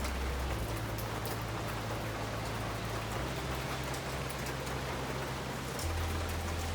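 Steady rain from Hurricane Ian, with scattered sharp drop ticks over a low steady rumble.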